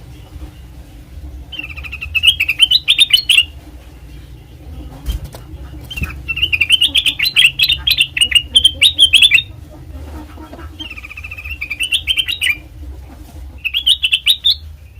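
Kutilang emas, a yellow bulbul, calling in four bursts of rapid chattering chirps, the second and longest in the middle, over a steady low hum.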